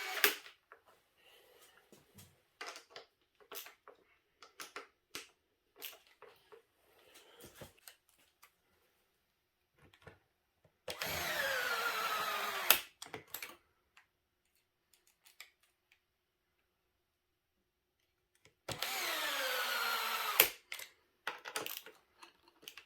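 A power drill-driver runs twice, in bursts of about two seconds, its pitch falling each time as the motor slows under load, typical of driving screws home while fastening the rear diff and bumper assembly. Between the bursts there are light clicks and knocks of small parts and tools being handled.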